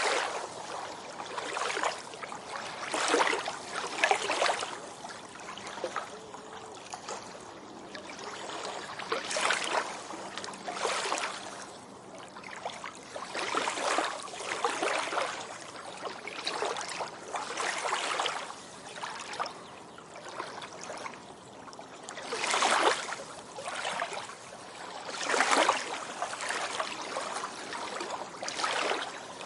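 Small waves washing onto a beach in irregular surges a second or two apart, each a splashing hiss that fades out, the loudest of them about two thirds of the way through.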